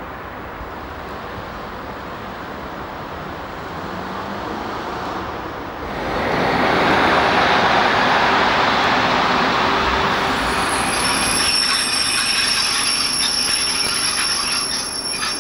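DB Class 103 electric locomotive and its coaches running along the platform road: a steady rumble of wheels on track that gets much louder about six seconds in as the locomotive passes close. A high wheel squeal comes in over the last five seconds.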